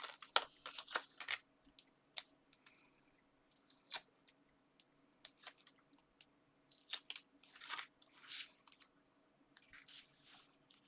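Card and paper being handled while foam pads are stuck onto a card topper: scattered sharp clicks and short rustles, with a few longer swishes about halfway and near the end.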